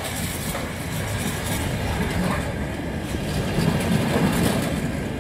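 Empty container flat wagons of a freight train rolling slowly past close by: a steady rumble and clatter of steel wheels on the rails.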